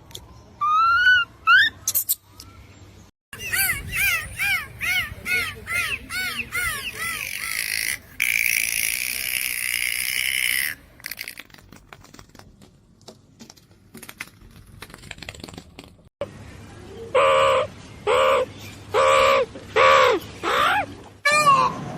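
Several different animal calls cut one after another: a few rising squeaky cries, then a fast run of short chirps, a quieter stretch, and near the end five short, strong, evenly spaced calls.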